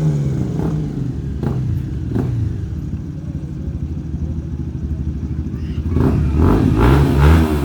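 Motorcycle engine falling back from a rev to idle, idling with a few sharp clicks, then revved in quick blips near the end.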